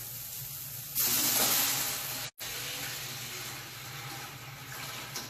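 Broth poured into a hot pot of sautéing onion and celery: a loud hiss of sizzle and steam sets in about a second in, breaks off for an instant, then settles into a steadier, quieter sizzle.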